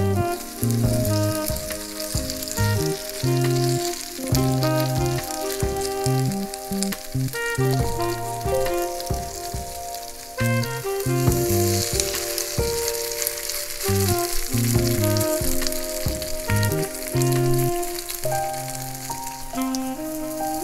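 Food sizzling steadily as it fries in oil in a pan, the sizzle strongest around the middle, under background music with a melody and a bass line.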